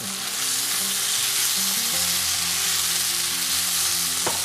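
Kung pao chicken stir-fry sizzling steadily in a hot pan over high heat, with the stock and sauce mixture just added. A brief click comes near the end, and soft background music plays underneath.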